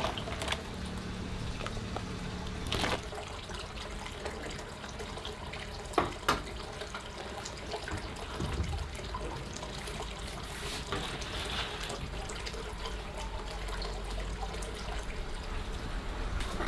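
Water running and splashing, as at a tap or in a washing basin, with a few sharp knocks about three and six seconds in.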